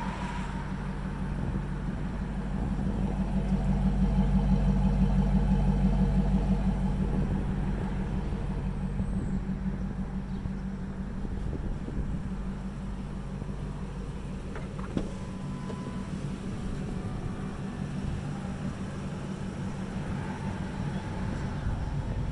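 Pickup truck engine idling steadily, growing louder for a few seconds early on and then settling back, with a single short click about two-thirds of the way through.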